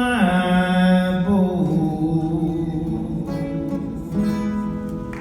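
The song's closing notes: a held, drawn-out sung melody that steps down in pitch a few times over strummed acoustic guitar, fading out near the end.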